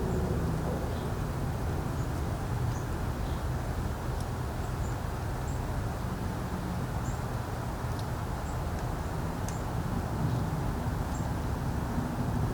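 Outdoor ambience: a steady low rumble of wind and distant traffic, with faint, brief high bird chirps scattered throughout.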